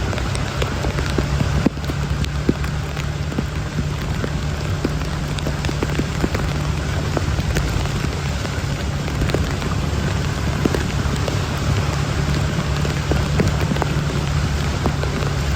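Heavy rain pouring down, a steady hiss dotted with many sharp drop hits close to the microphone, over a steady low hum.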